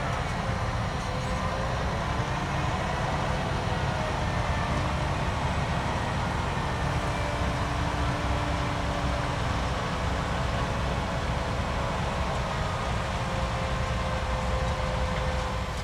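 Holmer Terra Dos T4-40 sugar beet harvester running at work: steady, loud engine and machinery noise with a whine whose pitch drifts slightly up and down.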